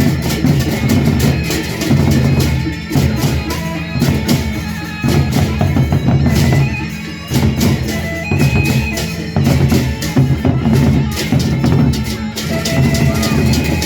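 Lombok gendang beleq ensemble playing an opening variation: large drums pounding under rapid, dense cymbal strokes, with short held melodic notes above.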